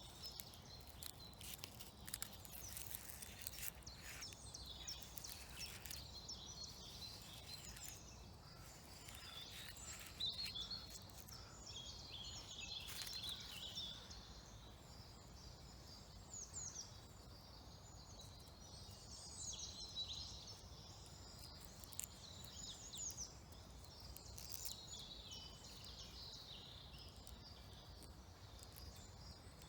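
Woodland birds singing: many short, high chirps and trills throughout, over a faint low background hum.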